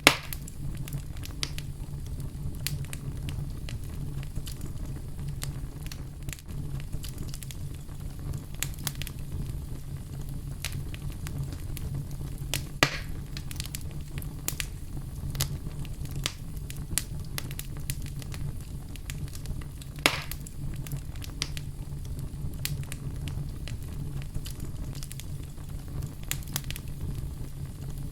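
Wood fire burning in a fireplace with a steady low rumble and frequent crackles, with a few louder pops: one right at the start, one about halfway through and one about two-thirds of the way in.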